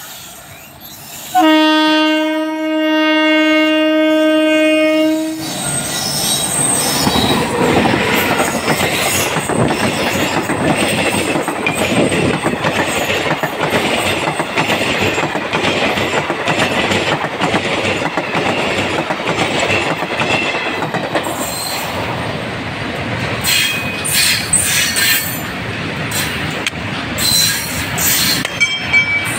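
An electric locomotive horn sounds one steady blast for about four seconds, about a second in. Then two trains pass close by: a passenger express's coaches and a freight train of tank wagons, their wheels rumbling and clattering over the rail joints, with sharper clanks and squeals near the end.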